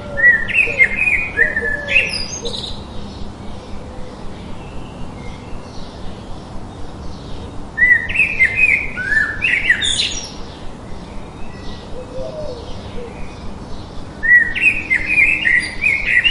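A songbird singing three separate phrases about six seconds apart, each a quick run of chirping notes that climbs higher at its end, over a steady hiss of added white noise. Fainter low call notes come in near the start and again about twelve seconds in.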